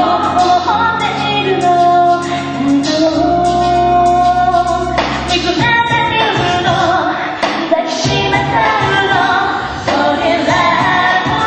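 A song performed live: a singer holds a melody over band accompaniment, with sustained low notes and repeated sharp drum-like hits.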